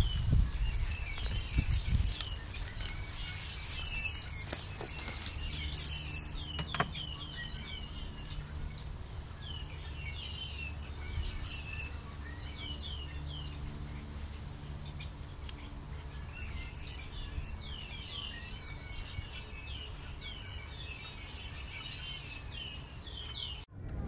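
Small birds chirping in repeated quick runs of short, downward-sweeping notes, over a low steady background rumble. A few low thumps in the first two seconds.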